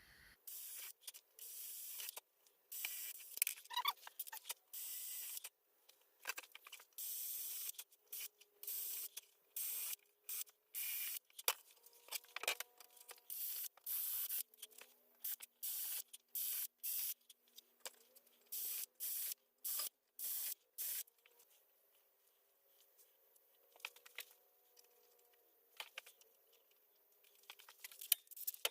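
Repeated short bursts of rasping, scraping tool noise on wooden window frames, each about half a second to a second long with brief gaps between them.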